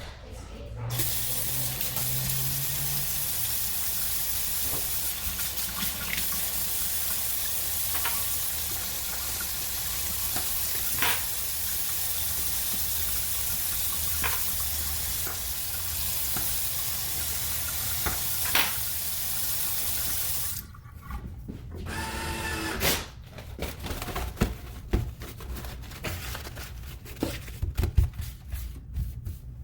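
Delta kitchen faucet running water into the sink steadily for about twenty seconds, then shut off suddenly. It is followed by scattered clicks and clatters.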